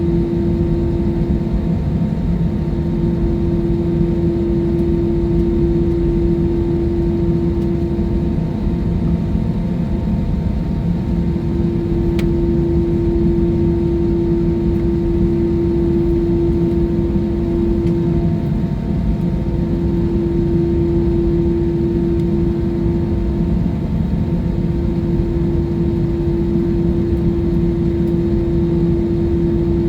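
Jet airliner in flight, heard inside the cabin: a steady roar of engines and airflow with a constant low engine hum running through it.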